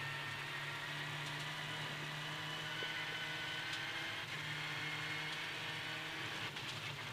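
Rally car engine running steadily at speed on a gravel stage, heard from inside the cockpit, with road and gravel noise under it and one upshift partway through.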